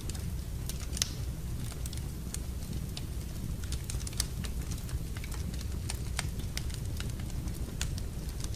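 Wood fire burning in a fireplace: a steady low rumble of flames with irregular sharp crackles and pops, a louder pop about a second in and another about four seconds in.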